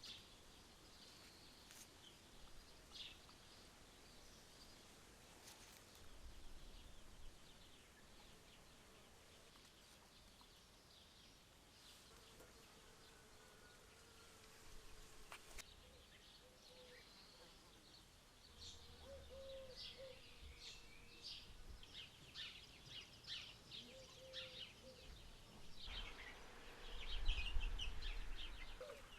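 Faint outdoor ambience: small birds chirping, with an insect buzzing past now and then. A louder low rumble comes near the end.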